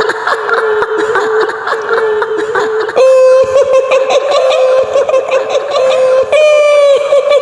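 A woman's high-pitched cackling laugh in the style of the kuntilanak ghost: rapid pulsing "hihihi" for about three seconds, then long drawn-out wailing notes that step up slightly in pitch near the end.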